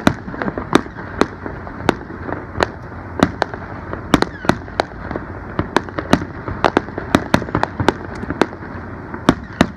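Aerial fireworks going off in a rapid, irregular series of sharp bangs and pops, about two or three a second, over steady background noise.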